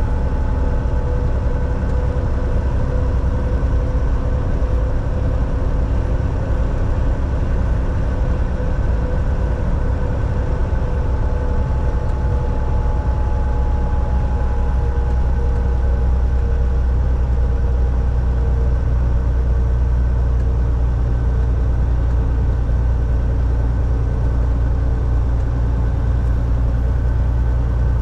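Volvo VNL 760 semi truck cruising on the highway, heard from inside the cab: a steady low engine drone with road noise and a faint drivetrain whine that eases slightly lower in pitch.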